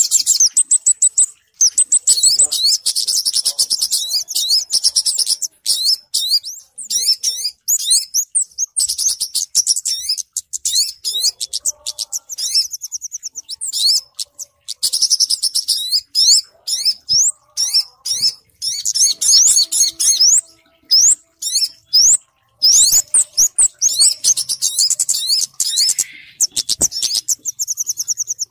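Bird-lure recording of small birds, kemade and sogok ontong (a sunbird), calling together: fast, high-pitched chirping trills and sharp rising call notes in runs broken by short pauses.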